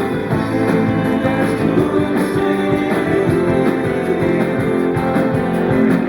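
Live band playing an instrumental stretch of a pop-rock song, led by guitar, between sung lines.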